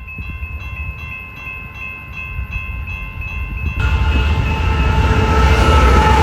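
BNSF freight train approaching a grade crossing. A crossing bell rings rapidly, about four strokes a second, over the low rumble of the train. About four seconds in, the train noise jumps sharply louder as the locomotive comes up, its rumble joined by steady tones.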